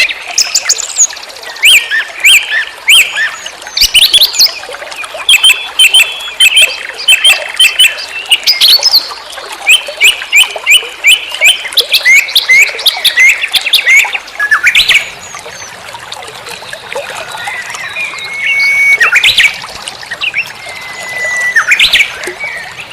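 Birds chirping and calling: many short, sharp chirps and quick trills of repeated notes, loud and almost continuous.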